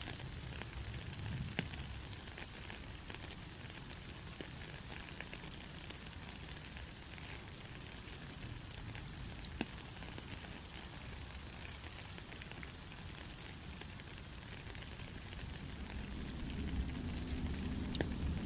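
Steady white-noise hiss with scattered faint crackles and pops; a low rumble swells in near the end.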